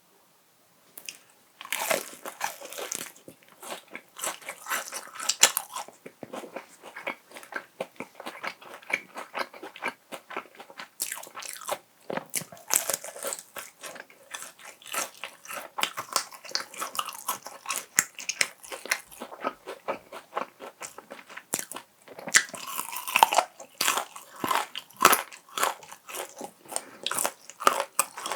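Close-miked crunching bites and chewing of crispy fried chicken, Kyochon Honey Combo, starting about a second and a half in. The coating crackles densely, with louder crunches at each new bite.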